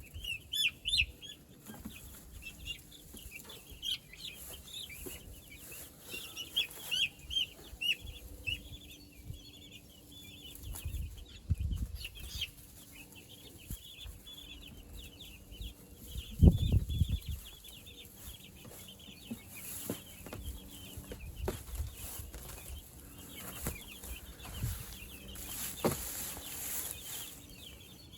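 Meat chickens calling with many short, high-pitched peeps and clucks, with a couple of low thumps, the loudest about two-thirds of the way through.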